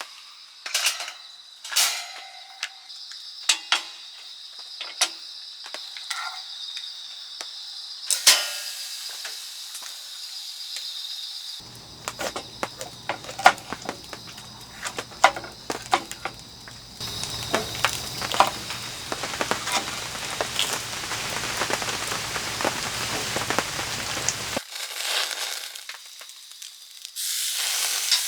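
Steak sizzling over a charcoal fire, with crackling and scattered sharp clicks and knocks. The sound changes abruptly several times.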